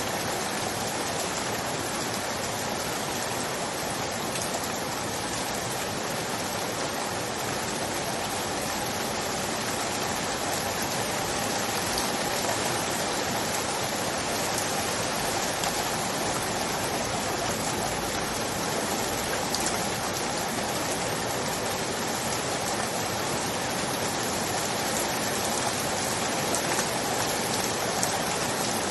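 Steady rain falling, an even hiss of many drops with faint patters, unchanging throughout.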